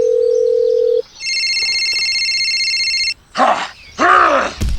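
Phone-like electronic tones: a steady single tone that stops about a second in, then a high electronic ring lasting about two seconds. These are followed by two short dog barks and a sharp knock near the end.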